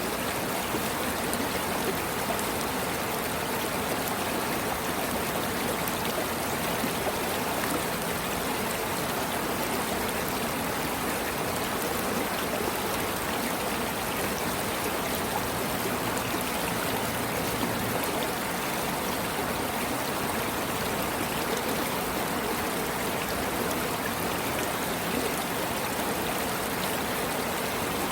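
Flowing water rushing steadily and without a break, like a stream, for sleep and relaxation listening.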